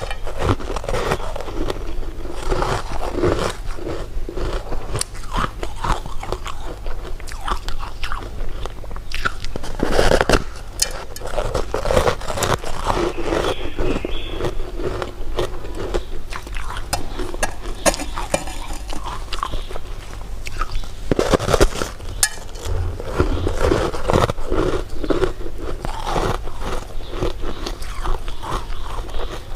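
Close-miked eating of candy and jelly: bites and steady chewing with crunching and crackling, and a few louder bites about a third of the way in and again about two-thirds of the way in.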